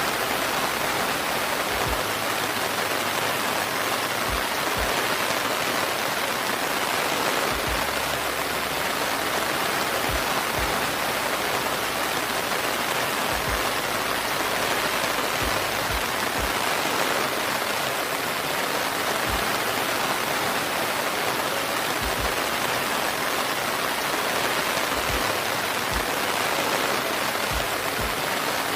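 Steady rain falling, an even, continuous hiss with no letup.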